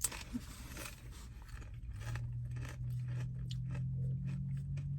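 Close-up chewing of food, with small crunches and wet mouth clicks. A steady low hum comes in about two seconds in.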